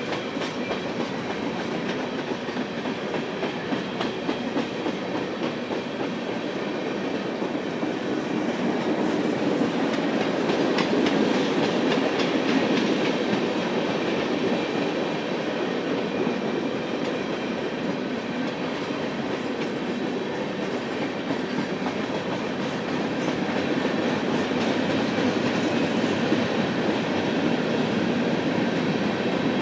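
Freight cars of a Union Pacific manifest train rolling steadily past, wheels rumbling and clicking over the rail joints.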